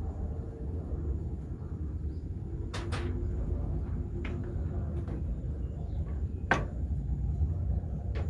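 Hand tools knocking on clay tiles and molds during traditional roof tile making: about six sharp, irregular knocks, two in quick succession about three seconds in, over a steady low rumble.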